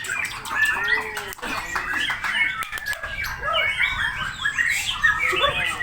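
Songbirds chirping and squawking rapidly, with many short calls overlapping without a break.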